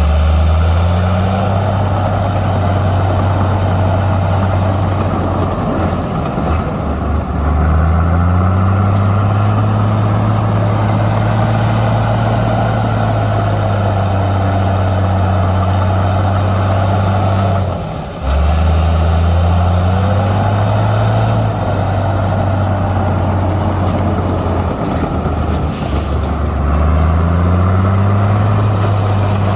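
Heavy diesel engine of earthmoving machinery running steadily, its pitch climbing as it revs up about a second in, again around eight seconds and near the end, with a brief break in the sound about eighteen seconds in.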